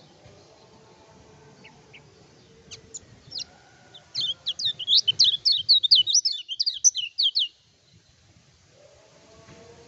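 Kecial kuning (a white-eye) singing: a few scattered high chirps, then a fast run of loud chirping notes for about three seconds that stops abruptly.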